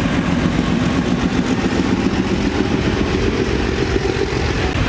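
Diesel locomotive hauling a container freight train running past: a steady engine drone with the rumble of the train.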